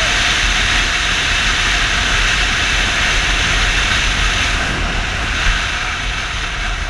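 Steady rush of wind and road noise from a Yamaha Fazer 250 motorcycle underway, easing slightly near the end.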